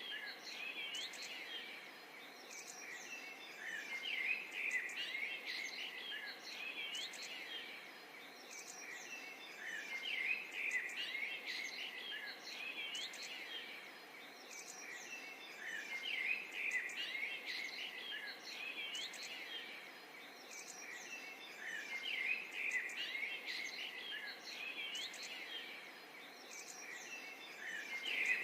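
Small birds chirping and twittering over a steady background hiss, a busy chorus of short calls that swells about every six seconds as if looped.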